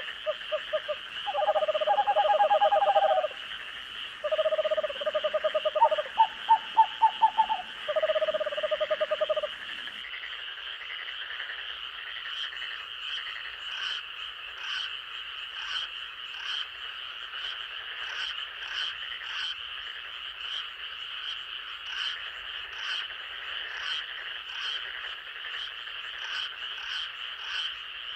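Night forest ambience: a steady, high chorus of insects throughout, with frogs giving low pulsed croaking calls in four bursts over the first ten seconds or so. After that, only the insect chorus remains, with faint regular clicking above it.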